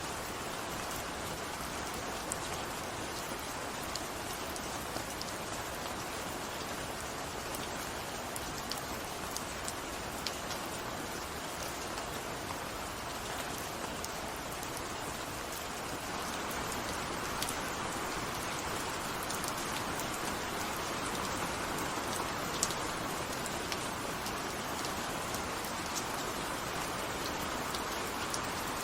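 Steady rain falling on a surface, a dense even hiss with scattered sharper drop ticks; it grows slightly louder about halfway through.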